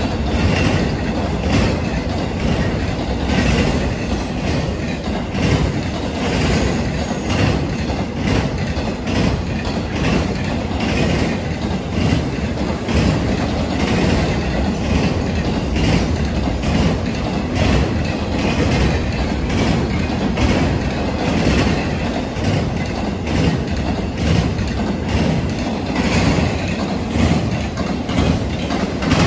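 Intermodal freight train of double-stack container and trailer cars rolling past at close range: a steady deep rumble with a continual run of sharp wheel clacks as the wheels pound over the rail joints of the diamond crossing.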